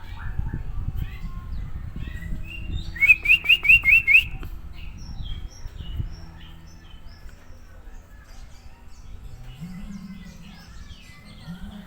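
White-rumped shama (murai batu) singing: short high chirps and whistles, with a loud run of about six quick rising notes about three seconds in. A low rumble runs under it, and a low steady hum comes in near the end.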